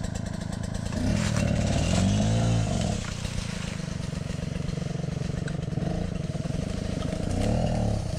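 Dirt bike engine running with a steady pulse, revved up and back down twice: once about a second in and again near the end.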